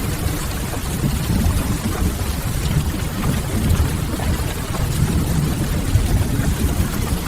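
Steady rain mixed with a crackling wood fire, over a deep, even rumble.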